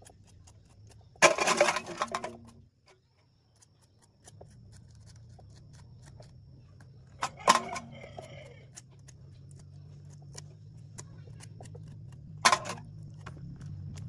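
Loose metal tools or parts clattering and knocking as they are handled: a loud rattle about a second in, then single sharp knocks. A low steady hum sets in about four seconds in and continues under the knocks.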